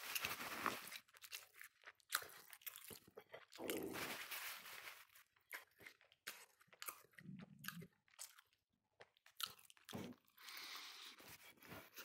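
A person chewing and biting baked chicken close to the microphone, with irregular short clicks and crackles as the meat is pulled from the bones by hand.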